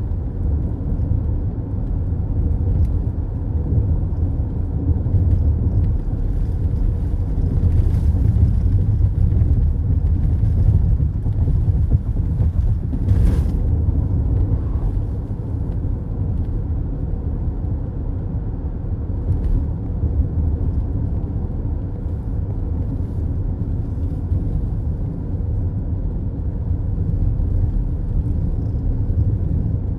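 Steady low road rumble of a car heard from inside the cabin while driving: tyre and engine noise, with a few faint ticks, the clearest about 13 seconds in.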